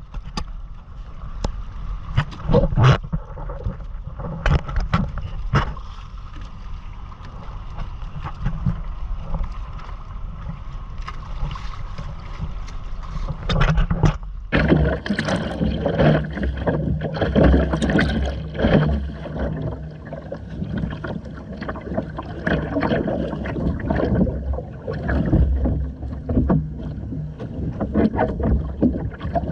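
Water splashing and gurgling against the hull of a Hobie Island sailing kayak under way, with wind buffeting the microphone and scattered knocks. About halfway through the water noise turns denser and busier.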